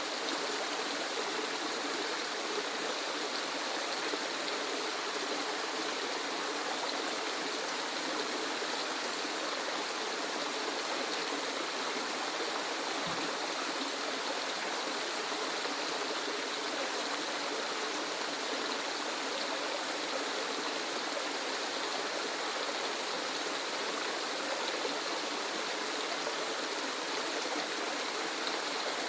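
Waterfall: a steady, unchanging rush of falling water, mostly hiss with little deep rumble.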